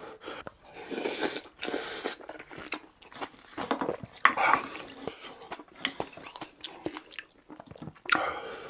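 Close-up eating sounds of a man chewing spoonfuls of rice and braised tofu stew, in irregular bursts of chewing and mouth noises.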